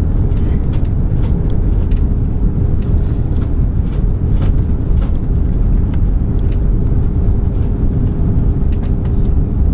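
Airbus A340 cabin noise on approach: a steady low rumble of engines and airflow, with a faint steady hum over it.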